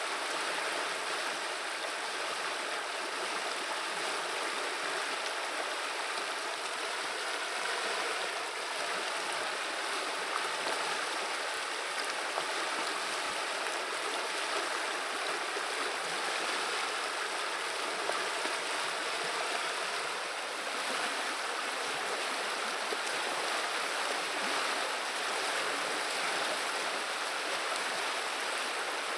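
River water running and babbling steadily, an even rushing without breaks.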